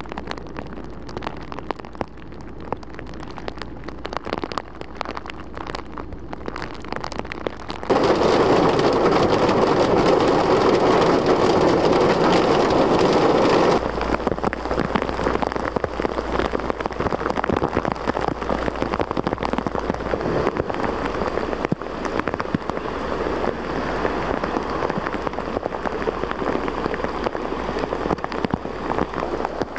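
Heavy rain pouring down in an even hiss. The level changes suddenly twice, with a much louder, denser stretch of downpour in the middle.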